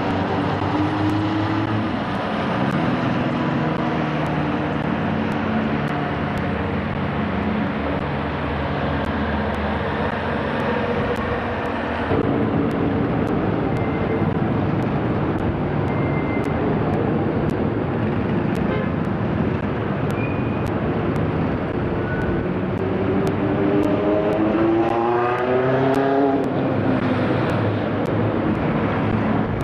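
Road traffic with several vehicle engines running steadily. Near the end, one engine revs up, rising in pitch as it accelerates.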